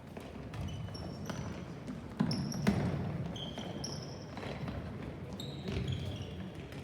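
Rubber-soled shoes squeaking on a hard indoor court floor during a team ball game, in many short, high squeaks. Two sharp ball impacts a little after two seconds in, about half a second apart, are the loudest sounds.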